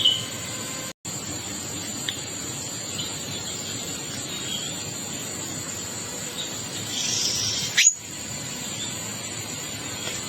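Wild birds giving short chirps every second or two over a steady high insect drone, with one louder call sweeping upward about eight seconds in. The sound cuts out briefly twice.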